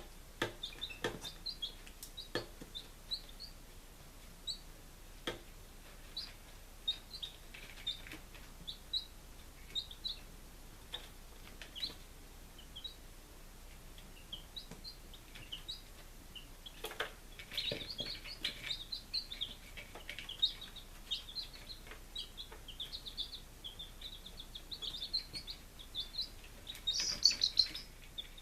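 Five-day-old chicks peeping: short, high peeps, scattered at first, then a busier run of peeping from about halfway that is loudest near the end. A few light knocks come near the start and around the middle.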